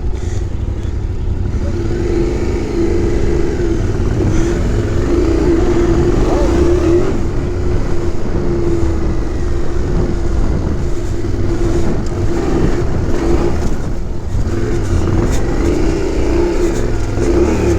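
Yamaha Ténéré 700 parallel-twin engine running hard under load during an off-road climb, holding a fairly steady pitch, over a heavy low rumble.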